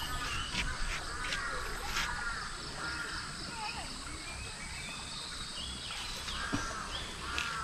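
Birds calling repeatedly, short arched calls with a few higher chirps, over steady outdoor background noise.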